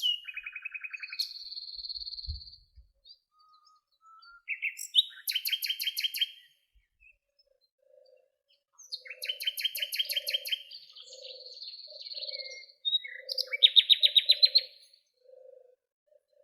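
Songbirds singing: short, fast trilled phrases of rapidly repeated notes, with pauses between them. From about halfway through, a soft low note repeats roughly once or twice a second beneath the songs.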